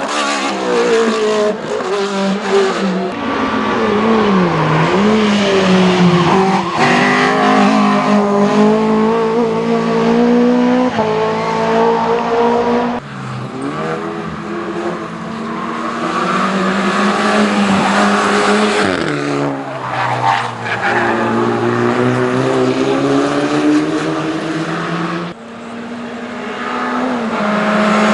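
Racing car engines at full throttle on a hill climb, the pitch rising through each gear and dropping sharply at every change. The sound falls away suddenly twice, about 13 and 25 seconds in, and then comes back.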